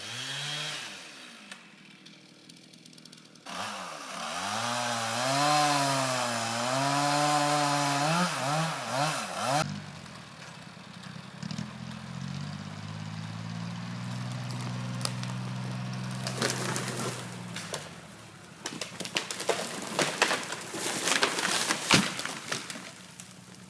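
Chainsaw running, its engine pitch rising and falling for several seconds as it cuts, then settling into a steadier, lower running note. A run of sharp knocks follows near the end.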